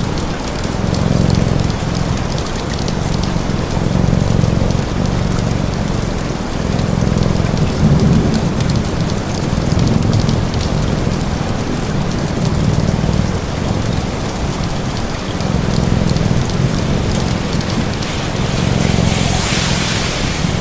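Steady rain with the fine crackle of a wood fire, over a low cat purr that swells and fades about every two seconds. A brief surge of hiss comes near the end.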